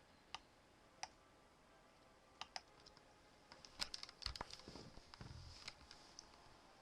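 Faint, scattered clicks over near-silent room tone: two single clicks, then a quick pair, then a denser flurry of clicks with a couple of soft low thumps about four to five seconds in.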